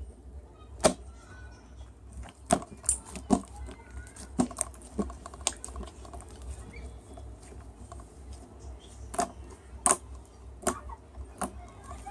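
Irregular sharp clicks and knocks, about a dozen, spaced unevenly over a low steady hum.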